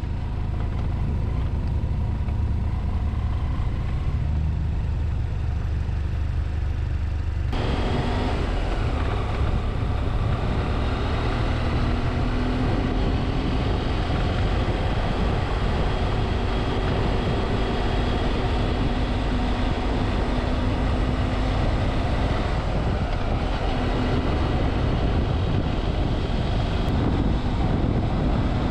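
BMW F700GS parallel-twin engine under way: a low engine rumble whose note rises about four seconds in as the bike pulls away, then about seven seconds in the sound changes abruptly to riding at road speed, with wind rushing over the microphone around the engine.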